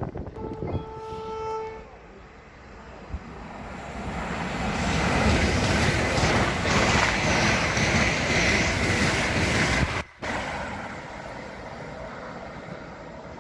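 A train horn sounds one steady note for about a second. Then a passenger train passes through the station at speed, its rushing noise building over a few seconds and cutting off sharply about ten seconds in, leaving a quieter rumble.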